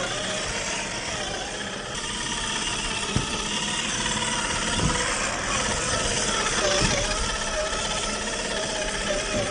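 Axial SCX10 III RC crawler's 45T 540 brushed motor and gear drivetrain whining, the pitch wavering up and down with the throttle, over a steady noisy rumble. A few short knocks are heard as the truck runs over rough ground.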